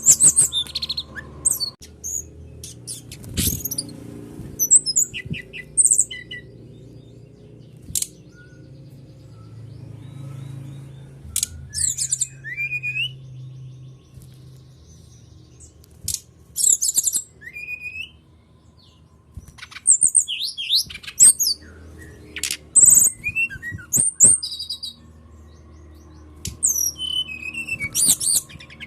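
Brown-chested jungle flycatcher (sikatan rimba dada coklat) song used as a lure recording: short phrases of high, rapid chirps and whistled trills, separated by pauses of a second or more, over a low steady hum.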